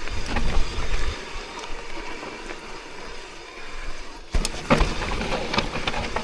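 Mountain bike on a dirt trail: wind rumbles on the microphone at first. About four seconds in comes a sharp knock, then an irregular run of clicks and rattles as the bike goes over rough ground.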